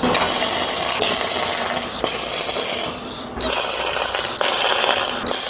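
Welding arc crackling in a run of short bursts, each about a second long with brief breaks between them: tack welds joining a steel column to a base plate.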